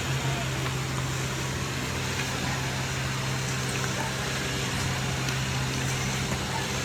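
Steady low machine drone with an even noisy hiss over it, holding constant throughout.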